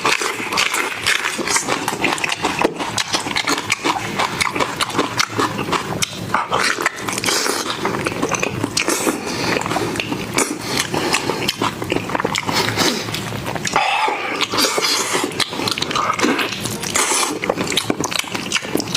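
Mukbang eating sounds: continuous chewing and smacking of food, full of quick wet clicks.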